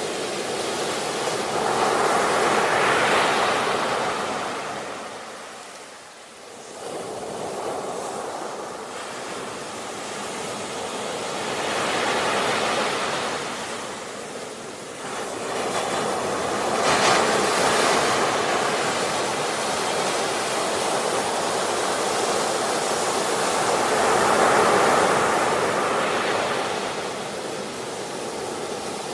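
Ocean waves breaking and washing on a shore, the surf swelling and falling back in slow surges about every five to eight seconds.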